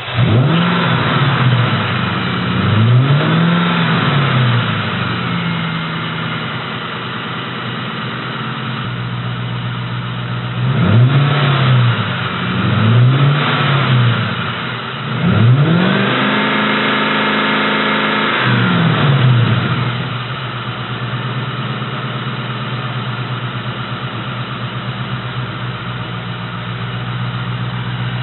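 A 1997 Mustang Cobra's 4.6-litre V8 is revved while standing. There are two quick blips, then a pause at a steady idle, two more blips, and a longer rev held for about three seconds. After that it drops back to a steady idle.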